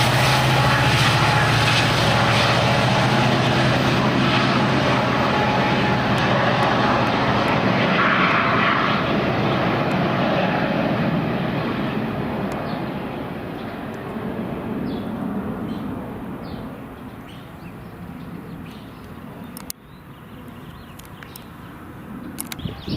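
Single-engine turboprop of a Cessna 208B Grand Caravan flying past. Its steady engine-and-propeller drone is loud at first with a low hum, then fades away over the second half.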